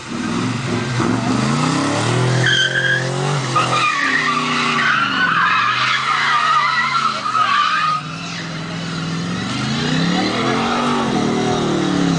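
Car drifting on a skid pan: the engine revs up and down several times while the tyres squeal, the squeal strongest in the middle, with a brief drop in the revs about two-thirds of the way through before they climb again.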